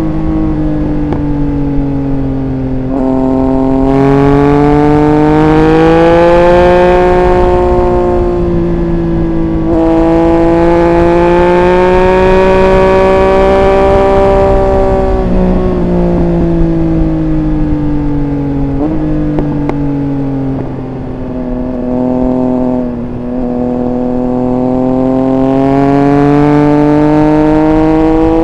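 Triumph Speed Triple 1200 RR's inline three-cylinder engine under way, its revs rising and falling with throttle, with several sudden jumps in pitch at the gear changes.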